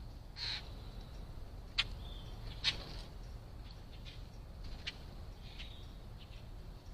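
Wild bird calls: one harsh call about half a second in, then several short, sharp calls and notes scattered through the rest, over a steady low background noise.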